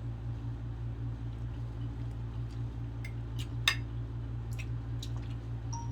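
Scattered light clinks and taps of plates and dishes during a meal, over a steady low hum; one sharper clink comes a little past halfway.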